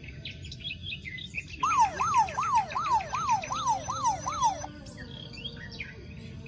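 Electronic siren-like warble, a tone sweeping up and down about two and a half times a second for about three seconds, over high bird-like chirps.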